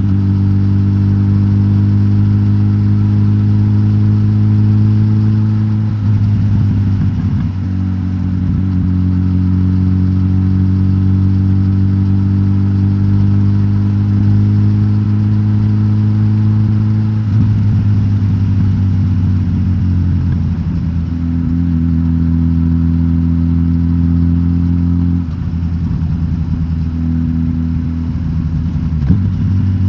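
Suzuki GSX-S1000GT's K5-derived inline-four, de-catted and breathing through the stock exhaust, running steadily under way. Its note climbs slowly, then drops suddenly several times, like gear changes.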